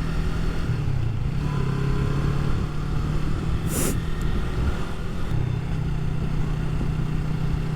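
Motorcycle engine running at a steady pace while riding, its pitch shifting slightly a couple of times, with wind and road noise over it. A short hiss cuts across it about four seconds in.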